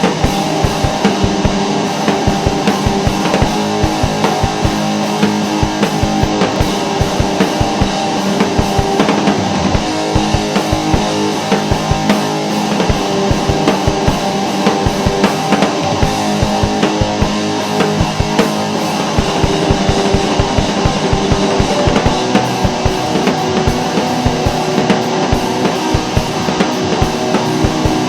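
Rock band playing an instrumental passage: a drum kit beating steadily under guitar.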